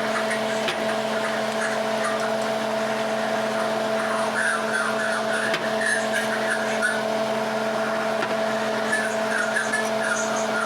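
Steady electric motor hum over the hiss of chicken strips frying in oil, with a few light clicks as the strips are lifted out. The sizzling has died down, the sign that the chicken is done.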